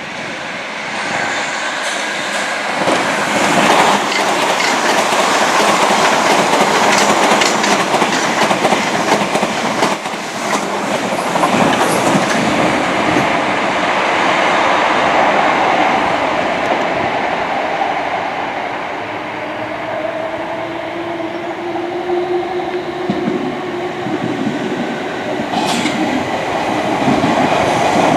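A train passing at close range, its wheels clattering over the rail joints, with a faint whine that rises slightly in pitch in the second half and then stops.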